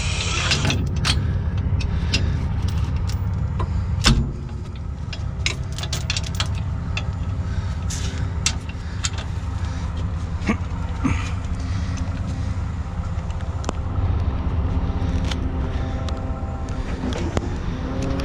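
Heavy truck diesel engine running steadily at a low rumble, with scattered metallic clicks and clinks and one loud knock about four seconds in.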